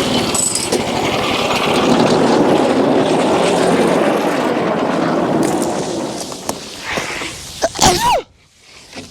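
Wood-Mizer LX25 sawmill's band blade cutting through a hemlock beam, with a loud, steady noise that falls away about six seconds in as the cut finishes. Near the end there are a few sharp clatters and a short sweeping squeal, and then the sound cuts off suddenly.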